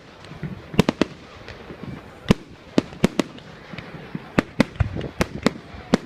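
Fireworks going off: about a dozen sharp bangs at irregular intervals, some in quick pairs, over a steady background rumble.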